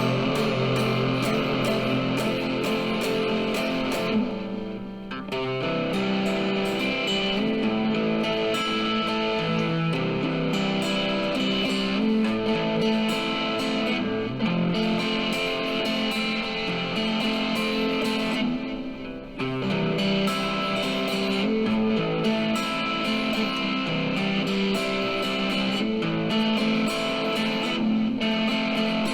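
Guitar-led rock music in an instrumental passage without vocals, with electric guitar over a steady band sound. The music thins out briefly twice, about four seconds in and again near nineteen seconds.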